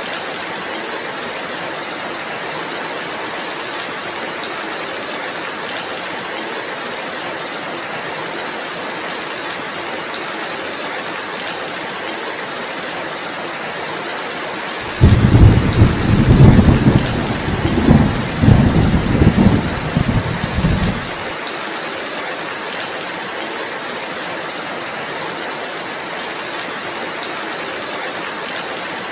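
Steady heavy rain hissing, with a loud, deep roll of thunder that starts suddenly about halfway through and rumbles for around six seconds before cutting off.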